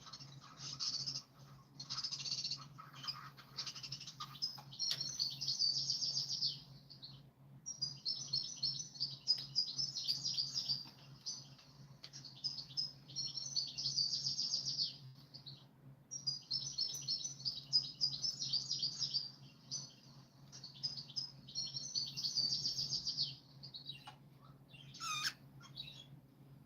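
A small songbird's rapid, fluttering chirping song, given in about seven phrases of one to three seconds each with short pauses between. Near the end comes a brief rising whistle, over a faint steady low hum.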